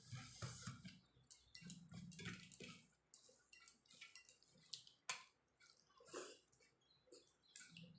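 Close-up eating sounds of someone chewing rice and jackfruit curry: soft, irregular wet mouth clicks with low murmurs of chewing, busiest in the first few seconds.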